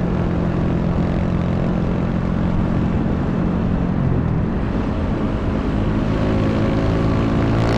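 Honda Wave 125 motorcycle's single-cylinder four-stroke engine running steadily under way, with wind noise on the microphone. The engine note dips briefly about four seconds in, then climbs near the end.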